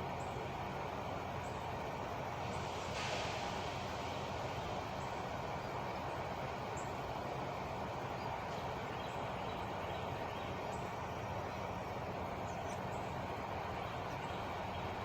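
Steady low rumble of an idling truck engine, with a short hiss about three seconds in and faint high chirps of birds here and there.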